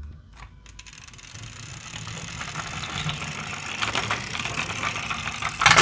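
Toy ambulance's small wheels rolling along a toy track, a rattling rumble that grows louder, ending in a quick clatter of knocks near the end.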